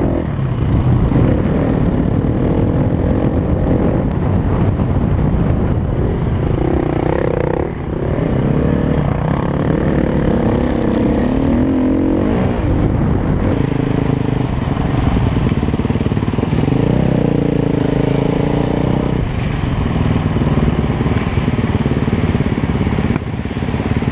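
Dirt bike engine revving up and down under load as the bike is ridden over sand, with wind rushing over a helmet-mounted camera.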